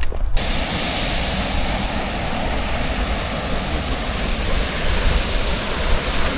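Steady roar of Magura Falls, a waterfall, its falling water making an even rushing noise with a deep low rumble. It begins abruptly a moment in.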